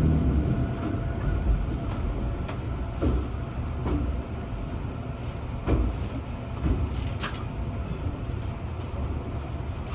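Running sound of a JR East 205 series 1100 commuter train heard from on board: a steady low rumble of wheels on rail with occasional sharp knocks and brief high squeaks, gradually getting quieter.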